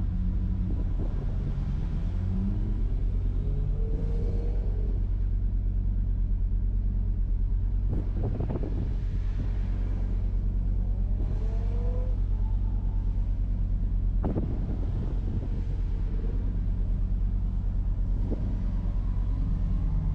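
Audi RS3's turbocharged five-cylinder engine running steadily while driven on track, its note rising and falling with throttle, with a couple of brief knocks partway through.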